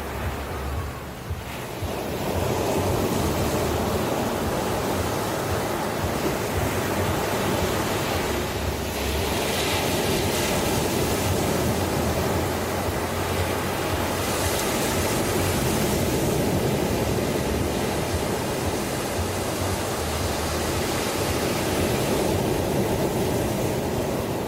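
Ocean waves breaking and washing on a shore, a steady rushing surf that swells about two seconds in, with brighter surges of breaking water around the middle.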